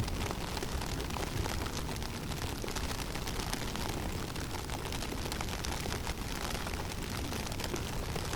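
Winter blizzard in a forest: steady wind noise with a low rumble, flecked with a dense fine ticking of blown snow.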